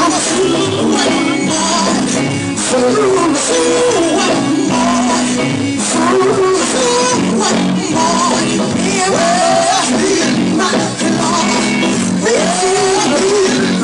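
Live gospel music: a voice sings with sliding, melismatic pitches over a loud church band with steady percussion.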